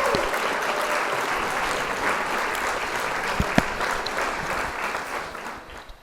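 Applause, a steady patter of clapping that fades out near the end.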